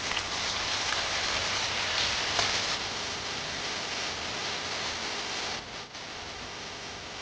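Green vegetables and pork lard cracklings sizzling as they stir-fry in hot fat, a steady hissing sizzle that briefly dips about five and a half seconds in.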